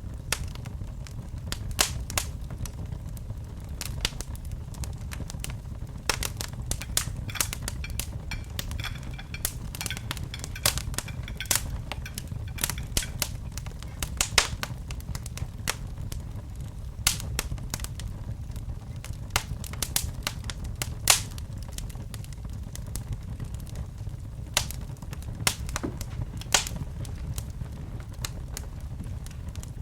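Wood fire in a fireplace crackling, with frequent irregular sharp pops over a steady low rumble; the loudest pop comes about two-thirds of the way through.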